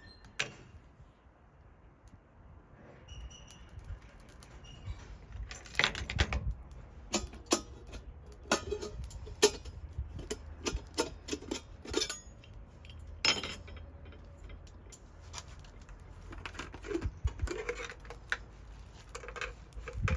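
Irregular light clinks and knocks of small metal or glass tableware and camp gear being handled, some with a brief ring.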